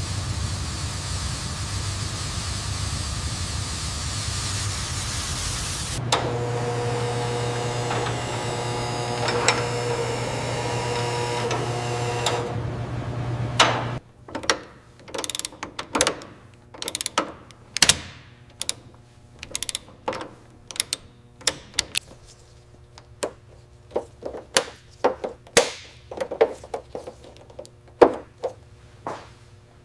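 A machine running with a steady rushing noise, then a steady hum of several held tones that cuts off suddenly, followed by irregular sharp clicks and knocks of hand-tool work.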